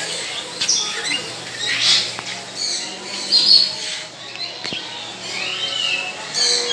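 Birds chirping and giving short squawks: many brief, separate high calls, one rising then falling in pitch about five and a half seconds in.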